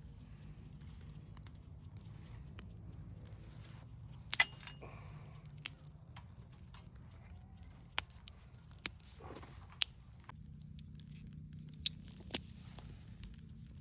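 Campfire crackling, with a few sharp pops at irregular intervals, the loudest about four seconds in, over a faint steady low rumble.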